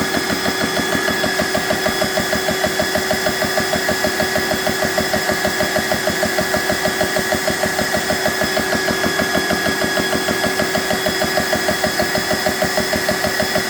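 BSA PCP air compressor running with a rapid, even pulsing beat. It is failing to build pressure in the rifle, which the owner puts down to a leak somewhere in the connections.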